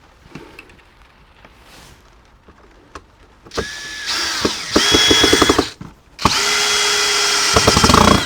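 Power drill driving screws into wood in two runs, the first starting about three and a half seconds in and the second just after six seconds. Each run rises in pitch and then holds steady, and rapid clicking runs through the end of the first.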